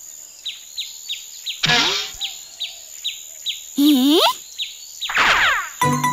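Forest ambience of repeated short falling bird chirps, about three a second, under a steady high-pitched insect-like tone, with three louder swooping calls. Music with plucked notes starts near the end.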